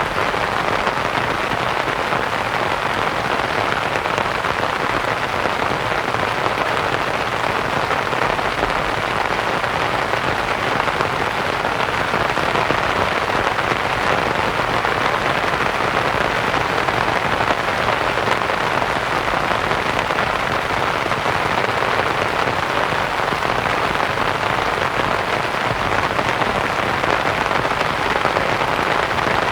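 Steady rain pattering on a canvas tent, blended with white noise into a dense, even hiss.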